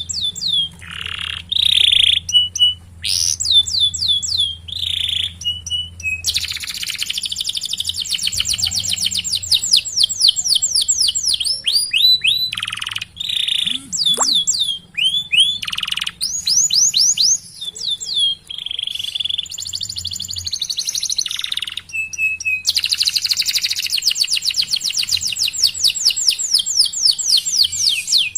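Domestic canary singing: long rolls of fast, repeated downward-sweeping chirps, broken by shorter phrases and brief pauses.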